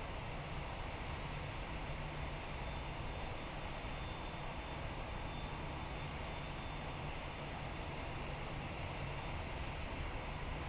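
Jet airliner engines heard from a distance: a steady rumble with a faint high whine.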